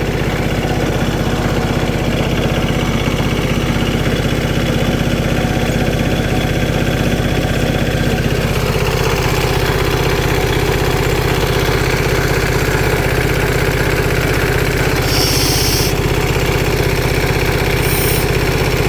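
Tractor diesel engine idling steadily after its fuel filter has been cleaned and the fuel system bled; its note shifts slightly about halfway through. Two short hisses sound near the end.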